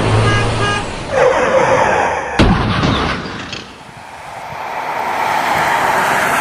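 Vehicle horn honking in short blasts, then a rising rush of noise and one sudden loud bang about two and a half seconds in that dies away. A broad rush of noise swells up again near the end.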